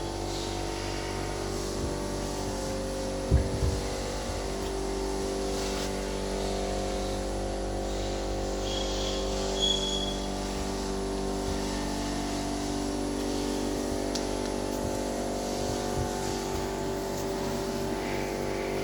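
Mercedes-Benz OM648 3.2-litre straight-six turbodiesel idling steadily, with a couple of short knocks about three seconds in.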